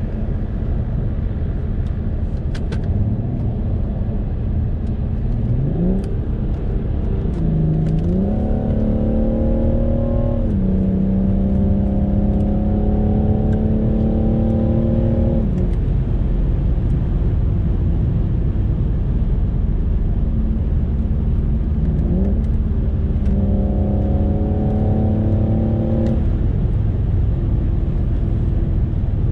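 BMW 640d's twin-turbo diesel straight-six heard from inside the cabin over a steady road and tyre rumble, pulling twice under acceleration. The revs rise sharply, climb, and drop back at an upshift of the eight-speed automatic before climbing again and fading as the throttle is eased. A second, shorter rising pull comes near the end.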